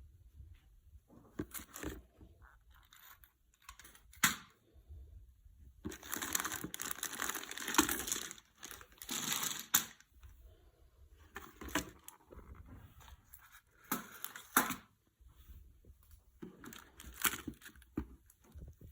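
Crinkling and rustling with scattered small clicks and taps, as things are handled by hand; the longest rustling stretches come about six and nine seconds in.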